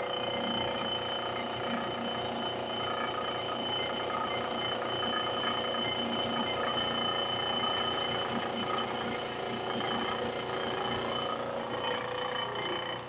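Homemade surface grinder built from a lawnmower blade sharpener: its motor and grinding wheel running with a steady, high-pitched whine over a rough grinding noise as the wheel works a metal workpiece. The sound cuts off suddenly at the end.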